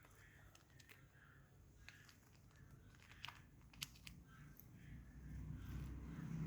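Near silence: room tone with a few faint, sharp clicks, and a low rumble building near the end.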